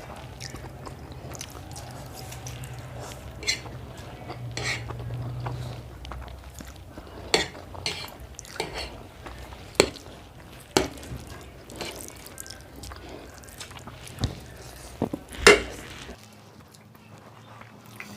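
Cutlery clinking and scraping against plates as Maggi instant noodles are eaten, about ten sharp clinks at irregular intervals, with the loudest near the end.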